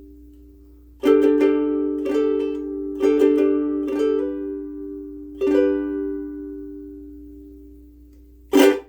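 Martin S1K soprano ukulele with Martin M600 strings, strummed chords about once a second, the last chord left ringing and fading away for about three seconds. A short loud thump comes just before the end.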